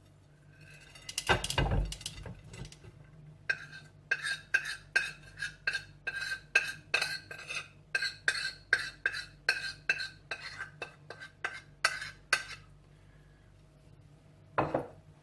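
Metal spoon stirring dry cake mix in a bowl, clinking against the side about three times a second with a ringing tone. A knock and clatter about a second in, and another knock near the end.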